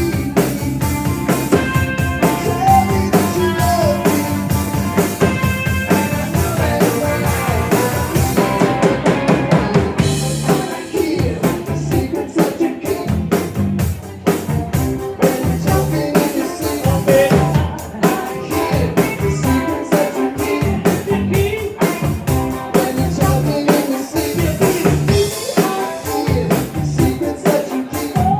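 Live rock band playing, with guitar, bass and a drum kit keeping a steady beat.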